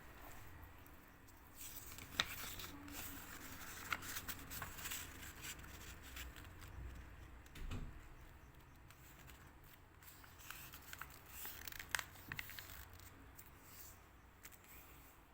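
Sheet of paper being handled and folded, rustling and crinkling faintly with a few sharp clicks.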